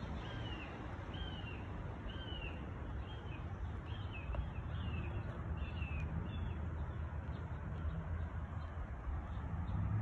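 A bird calling outdoors: a short arched note repeated about one and a half times a second, fading out after about six seconds, over a steady low background rumble.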